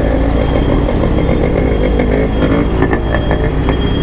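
Kawasaki Z900 motorcycle's inline-four engine running with a steady low rumble. A thin, steady high tone starts about three seconds in.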